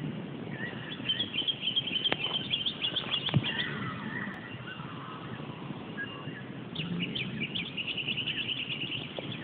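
Birds singing: two runs of rapid chirping trills, the second near the end, with a couple of sharp pops about two and three seconds in.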